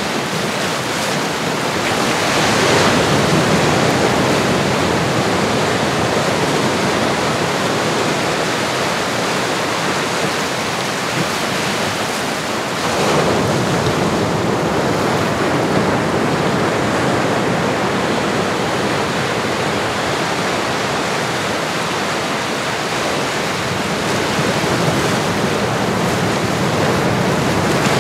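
Ocean surf: a steady rush of waves washing in. It swells louder about three seconds in, again about thirteen seconds in, and near the end.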